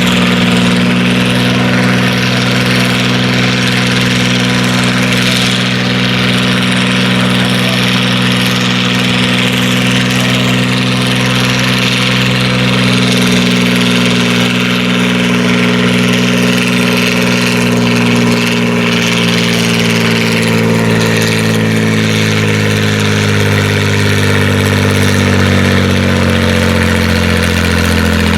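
Farm-stock diesel tractor engine working hard under load while pulling a weight-transfer sled. It runs steadily at first, then its pitch sags steadily through the second half as the engine lugs down under the increasing drag of the sled.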